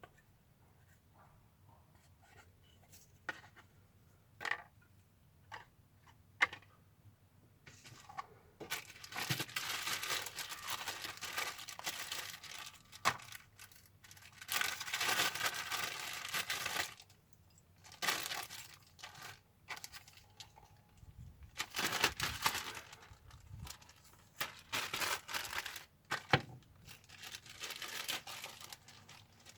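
A few light clicks, then repeated bursts of tearing, crinkling noise lasting a second or two each, as some material is torn or handled.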